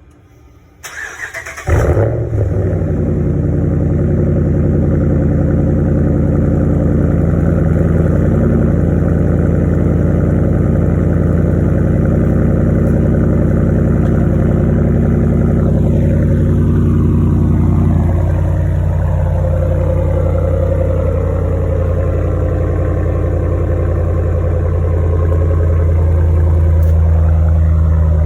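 Cold start of a Ram 1500's 5.7-litre Hemi V8 through a Y-pipe exhaust: the starter cranks about a second in, the engine catches suddenly and settles into a loud, steady cold idle. About two-thirds of the way through, a falling whine is heard and the idle note changes.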